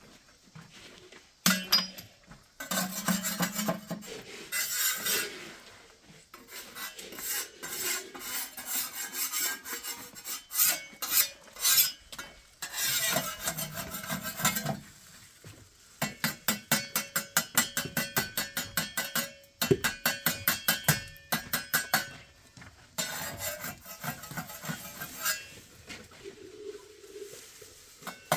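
A hand tool scraping and rasping on a hard surface in quick, repeated strokes. The runs come about four or five strokes a second, with short pauses between them.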